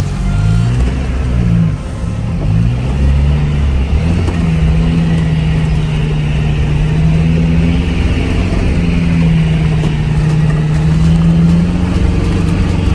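Off-road 4WD vehicle's engine running under load. Its pitch rises and falls over the first few seconds, then holds steady.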